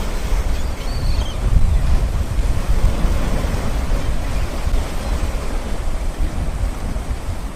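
River fountain jets spraying and splashing down onto the water, a steady rushing hiss, with wind buffeting the microphone in a low rumble.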